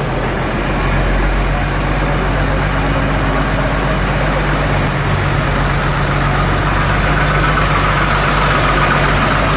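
A vehicle engine running steadily, with a steady low hum under a dense even noise.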